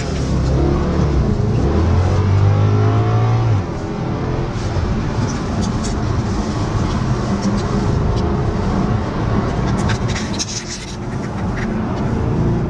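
V8 engine accelerating hard, heard from inside a car's cabin. Its pitch climbs over the first few seconds, then settles into steadier engine and road noise, with a few sharp ticks near the end.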